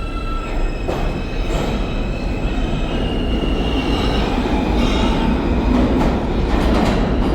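Train running on the rails: a steady rumble with thin, shifting wheel-squeal tones and a few sharp clicks.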